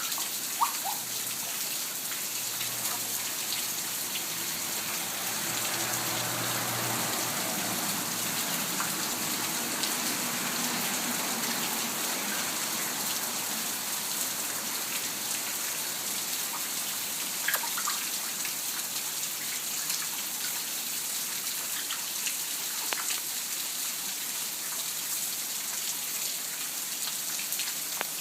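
Steady rain falling, an even hiss with a few light ticks.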